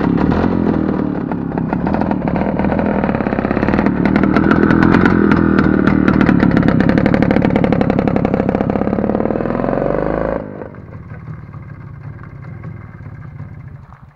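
A vintage flat-twin motorcycle engine running loud and close, revving up and down as the bike pulls away. About ten seconds in the sound cuts off abruptly to a quieter engine idling.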